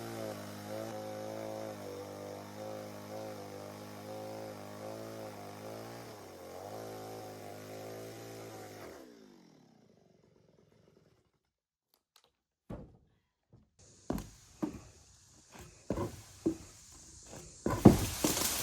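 An engine runs with its speed wavering up and down, then winds down and stops about nine seconds in. After a few seconds of silence come a series of sharp knocks and thumps, the loudest near the end.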